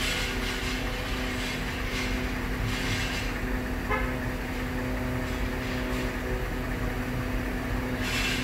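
Mercedes-Benz GL500 SUV's V8 engine idling with a steady hum.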